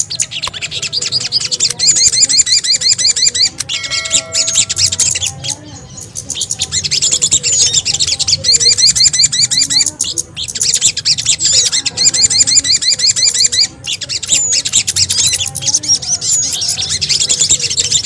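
Bird-lure recording of sogon and kemede calls: a dense, busy chatter of rapid, high-pitched chirps from many small birds, repeating without pause. About four seconds in there is a brief held whistle, and the chatter drops off briefly a few times.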